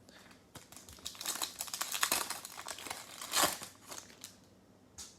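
Crinkling and rustling of plastic trading-card packaging being handled, with a burst of crackling loudest about three and a half seconds in.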